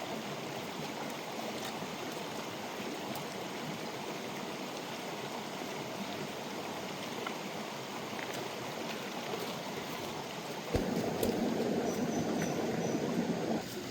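Steady rushing of a flowing forest stream. About eleven seconds in there is a thump, then a louder rushing sound for about three seconds that cuts off near the end.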